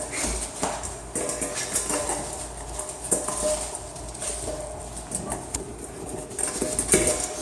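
Puppies tussling in a game of tug of war: irregular scuffling, clicks and knocks, with small animal vocal sounds mixed in.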